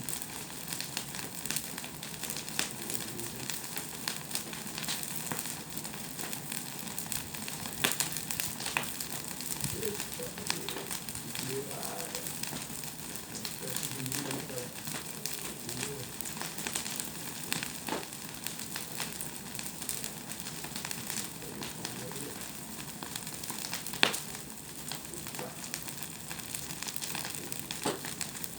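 Bonfire burning, a steady crackle and hiss thick with sharp pops, two of them louder: one about a third of the way in and one near the end.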